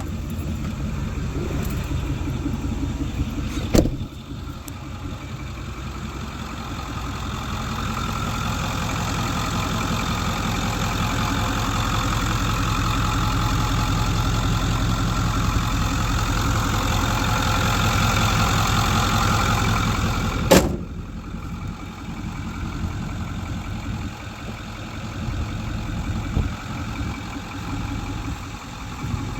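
Ford 6.4 L Power Stroke turbo-diesel V8 idling through a straight-pipe exhaust. Two sharp knocks, about 4 seconds in and about 20 seconds in, each followed by a drop in level; between them the engine grows gradually louder.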